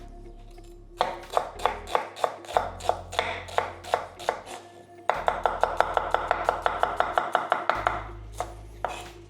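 Kitchen knife finely chopping red onion on a chopping board: steady chops about three a second, then a fast run of rapid chopping about five seconds in that stops near the end.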